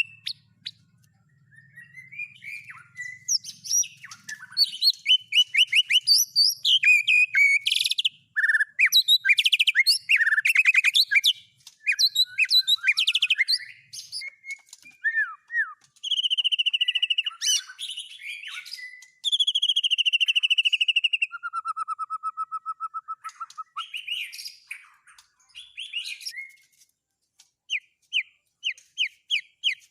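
Songbird song: a fast, varied run of chirps, whistled notes and rapid trills, with short breaks between phrases. It ends in a quick string of repeated notes.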